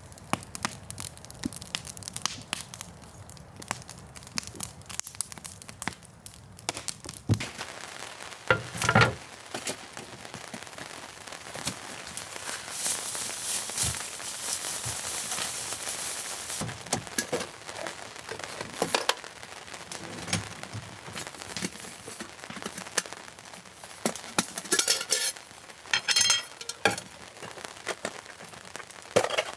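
Repeated clinks, taps and crinkling of cooking gear and food packaging being handled, with a steady hiss swelling from about twelve seconds in for several seconds.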